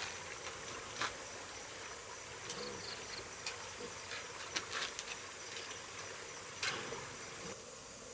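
Insects buzzing steadily in the background, broken by a few short clicks and rustles.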